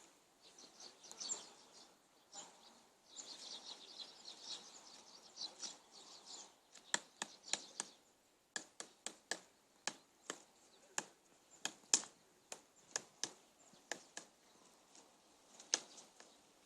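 A series of sharp, irregular taps or knocks, about two to three a second, starting some seven seconds in and lasting nearly ten seconds. Birds chirp faintly before them.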